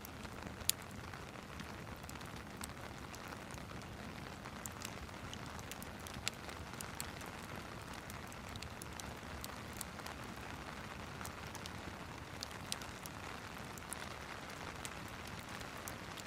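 Steady rain with a fireplace crackling over it: scattered sharp pops, the loudest about a second in.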